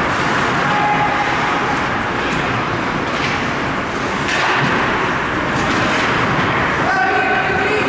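Loud, steady ice hockey rink noise with a few sharp clicks. A short steady tone sounds about a second in, and a pitched horn-like tone starts near the end.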